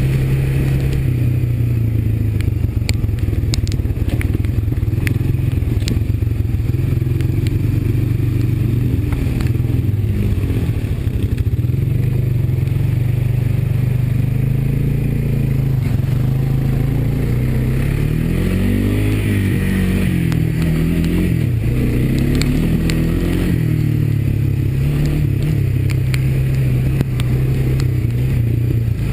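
Single-cylinder four-stroke Honda ATV engine running under way, its pitch rising and falling as the throttle is worked, with the pitch swinging most about two-thirds of the way in. Scattered sharp clicks and clatter run over the engine.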